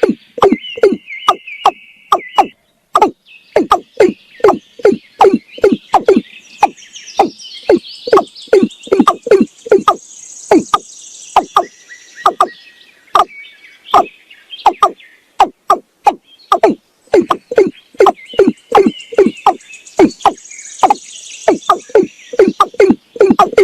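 Watercock calling: a long run of short, deep notes repeated about two or three times a second, each falling slightly in pitch. Fainter high chirping sounds underneath.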